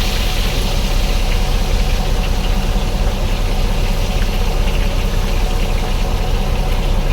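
Boat engine idling steadily, a fast even low chugging with a hiss above it.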